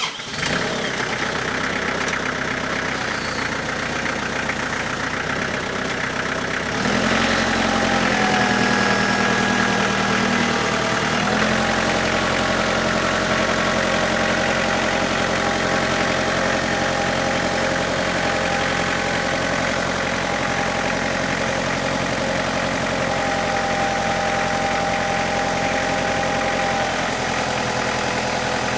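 Tractor engine running steadily, its note stepping up to a higher, louder speed about seven seconds in and easing back about four seconds later.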